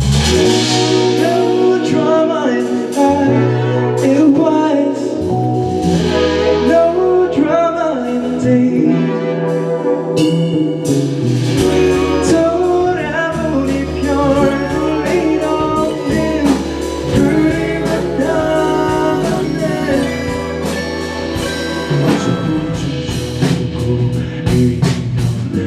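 Live band music: the instrumental opening of an indie pop song, cutting in suddenly and playing loudly throughout.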